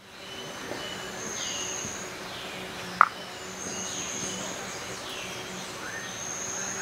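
Birds calling, with repeated short downward-sweeping notes and long high, steady whistling tones, over a low steady hum. A single sharp click about three seconds in is the loudest sound.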